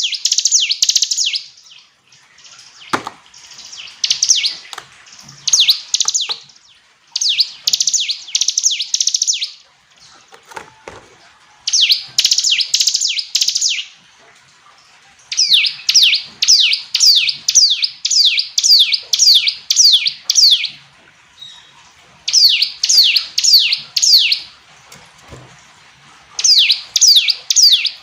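Ciblek gunung, a prinia, singing: repeated loud phrases of rapid, sharp down-slurred notes, about six a second. The phrases last from one to five seconds, with short pauses between them.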